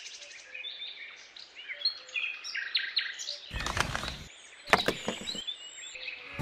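Small birds chirping and tweeting, with two brief bursts of handling noise about four and five seconds in as a small plastic chute is set against the edge of a miniature pool.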